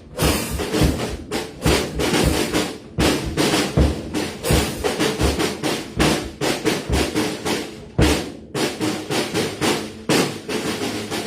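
Drum kit being played hard and freely: fast snare strokes and rolls over bass drum kicks, with a few short breaks between phrases.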